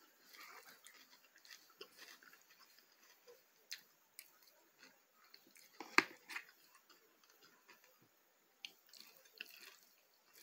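Faint close-up chewing and mouth sounds of someone eating, with a metal fork clicking and scraping in a plastic bowl. One sharp click about six seconds in is the loudest sound.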